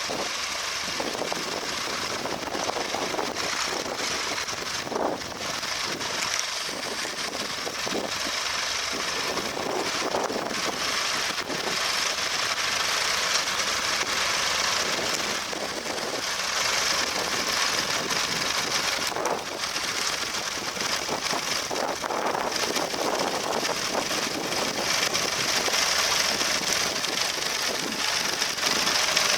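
Vintage tractor engine running steadily, working a plough across a field.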